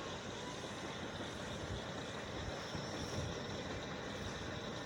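Steady outdoor background noise, a low rumble with hiss, with no distinct bangs.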